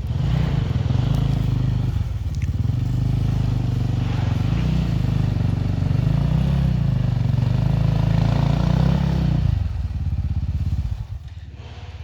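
Enduro motorcycle engine running under changing throttle, its pitch rising and falling repeatedly. Near the end the throttle closes and the engine drops back to a low idle.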